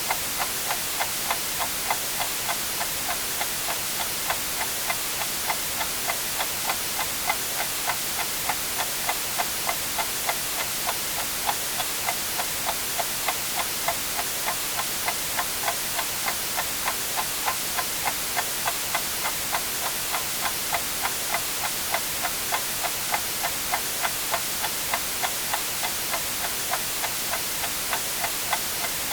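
Clock ticking evenly, about two ticks a second, over a steady white-noise hiss.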